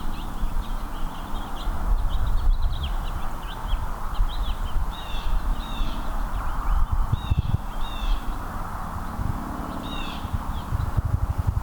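Small songbirds giving many quick, high chirps, some in pairs of curved notes, over a steady low rumble.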